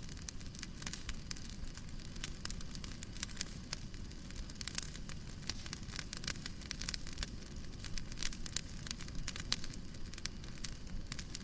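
Wood fire crackling in a fireplace: a steady stream of small sharp pops and snaps, several a second, over a low rumbling hiss.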